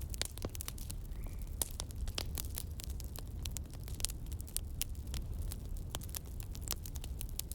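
Campfire crackling: dense, irregular pops and snaps over a steady low rumble.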